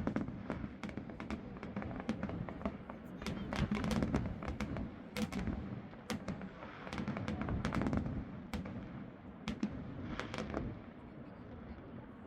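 Fireworks going off: a rapid string of sharp pops and crackles over swelling low rumbles.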